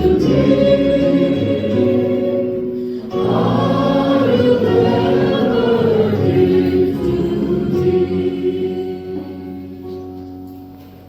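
A choir singing a hymn, held notes in phrases with a short break about three seconds in, fading away over the last few seconds.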